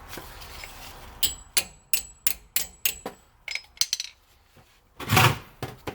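A hammer tapping on metal to make sure a part on the wheel is seated: about eight quick taps in two seconds with a high ringing note, then a few softer taps. A single heavier knock comes near the end.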